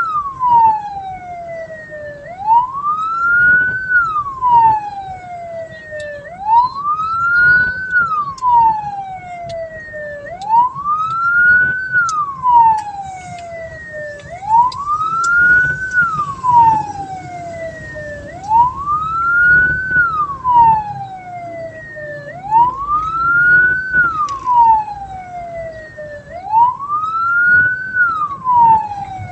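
Vehicle siren wailing: a loud tone that climbs quickly and then slides down more slowly, repeating about every four seconds, over faint road noise.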